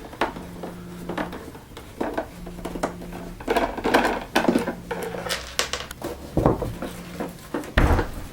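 Clicks, taps and knocks of a screwdriver and hands working on a vacuum cleaner's plastic housing while hunting for its screws, with a heavier thump near the end.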